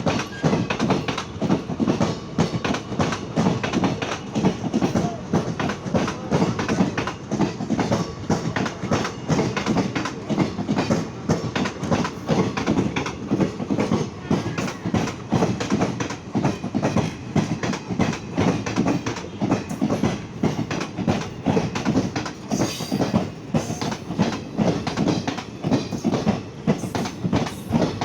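Gour Express passenger train's wheels clattering over rail joints and points in a dense, uneven run of clacks as it switches tracks on the approach into a station.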